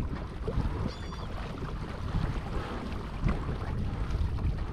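Wind buffeting the microphone on an open boat, with water lapping and a faint hiss behind it. A short, faint, high chirp sounds about a second in.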